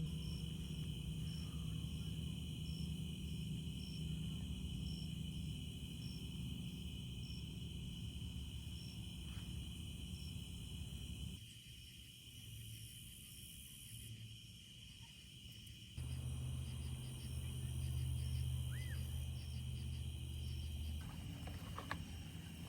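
Insects chirping in a steady high chorus with regular repeated chirps, over a low rumble that drops out abruptly about halfway through and returns abruptly a few seconds later.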